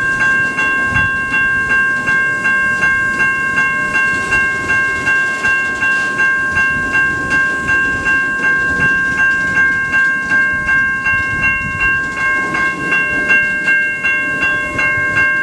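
Railroad crossing warning bell ringing with steady, evenly repeated strikes, about three a second, over the low rumble of a slow-moving freight train.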